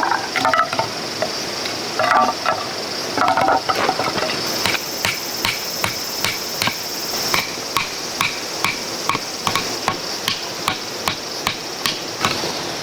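Hammer driving metal tent stakes: a few ringing clinks, then steady, even strikes at about two a second.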